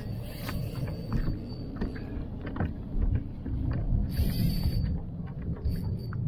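Wind buffeting the microphone and water noise around a fishing kayak, with scattered knocks and clicks and a brief hiss about four seconds in.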